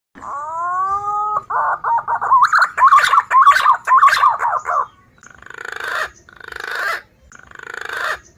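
Recorded green pigeon (punai) calls played as a bird lure. A rising whistle is followed by a fast warbled phrase, then four harsher calls about a second apart, each swelling in volume.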